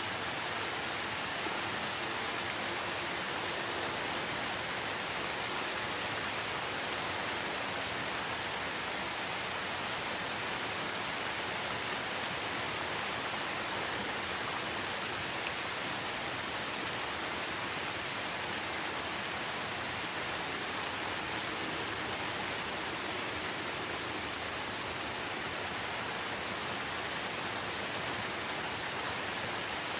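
Steady, even rain falling, a continuous hiss of drops on leaves and surfaces with no let-up.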